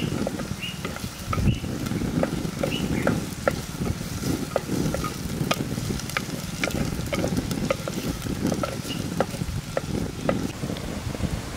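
Wooden spatula stirring green chillies and sliced onion frying in oil in a black pot: steady sizzling with irregular scrapes, ticks and pops.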